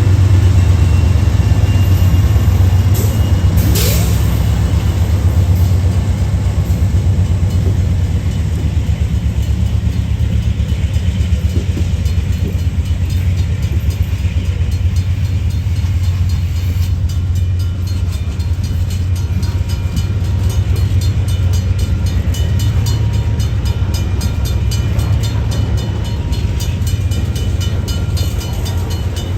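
Freight train rolling past with a steady, heavy low rumble. There is a brief sharp high-pitched noise about four seconds in. From about halfway on, a rapid, regular clicking of wheels passes over the rail joints.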